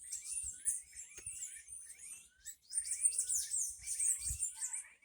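Small birds chirping and twittering together: many quick, high-pitched overlapping calls, with a short lull about halfway through.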